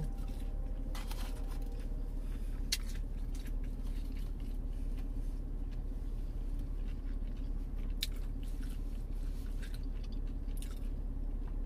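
A person biting into a breaded chicken nugget and chewing the mouthful, with a few sharp crunchy clicks scattered through, over a steady low hum.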